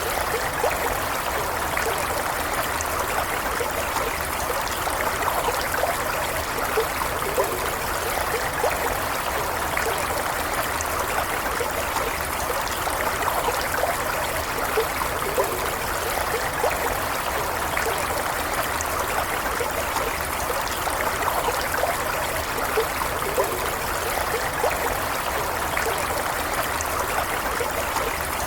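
A stream flowing steadily, its water babbling and trickling in an even rush.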